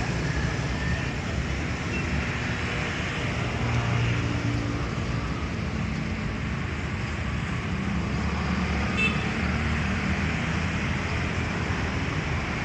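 Steady road traffic noise, a continuous hum of passing vehicles, with one short high chirp about nine seconds in.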